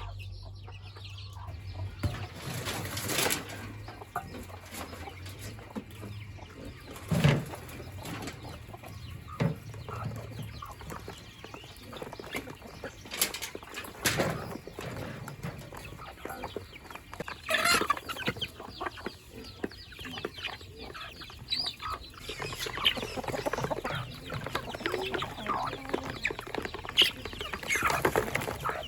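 Chickens clucking, with scattered short knocks, getting busier over the last few seconds.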